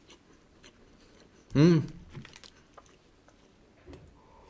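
Faint wet chewing of a soft sandwich cookie, with small mouth clicks and smacks. About one and a half seconds in comes one short, loud vocal 'mm' whose pitch rises and falls. Near the end there is a soft sip from a glass mug.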